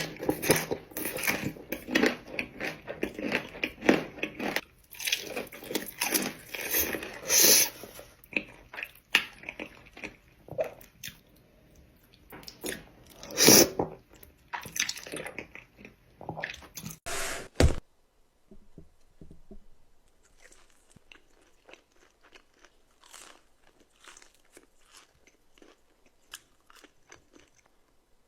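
Close-miked eating: a person biting and chewing crunchy food, with loud, dense crunches. About two-thirds of the way through the sound cuts off abruptly and gives way to much quieter, sparser chewing and small clicks.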